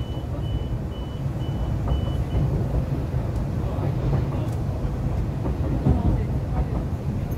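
MTR East Rail Line R-Train electric multiple unit running along the track, heard from inside the carriage as a steady low rumble. Over the first two and a half seconds a short high beep repeats about twice a second, then stops.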